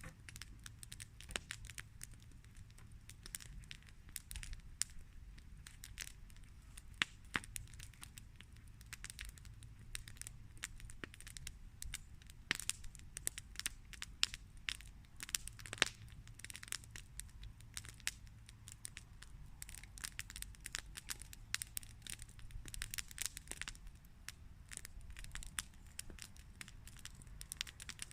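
Campfire burning: wood crackling with many irregular sharp pops over a low steady rumble.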